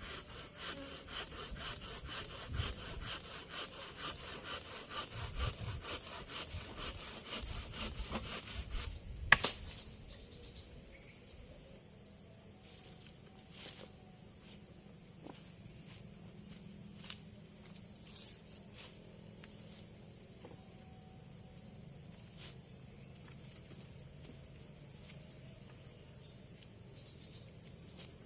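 Steady high-pitched forest insect chorus. For the first nine seconds it is joined by low thuds and fast, even ticking, ending in two sharp loud knocks about nine seconds in; after that the insects go on with only an occasional faint click.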